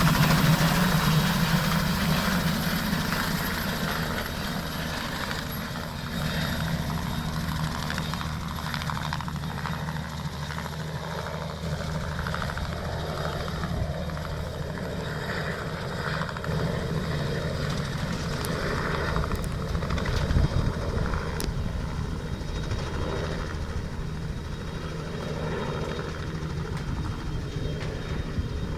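Robinson R66 helicopter taking off, its Rolls-Royce RR300 turboshaft and two-bladed rotor running. The sound is loudest at first, fades over the first few seconds, then holds steady.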